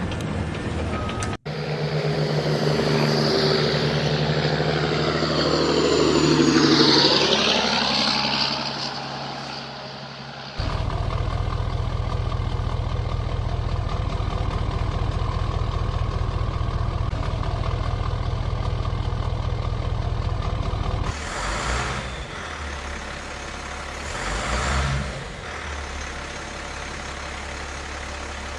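Heavy truck engine sounds in edited segments: first a passage with sweeping rising and falling pitches, then from about ten seconds in a steady low engine drone, and from about twenty-one seconds a lower idling rumble with brief hissing bursts.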